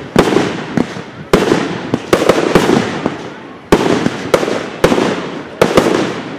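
A fireworks display: about ten loud bangs in six seconds, some in quick pairs, each trailing off before the next.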